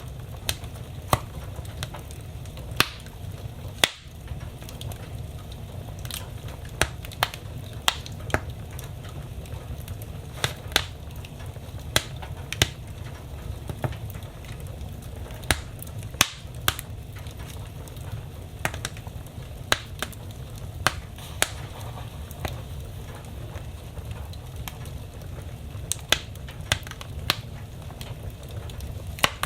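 Wood fire burning in a fireplace, crackling with irregular sharp pops, some much louder than others, over a steady low rumble of the flames.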